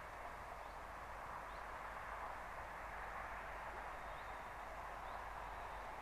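Steady, fairly quiet outdoor background hiss, with a few short, faint, high bird chirps scattered through it.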